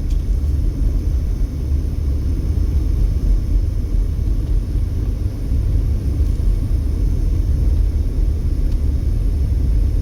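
Steady low rumble of a car driving: road and engine noise heard inside the cabin.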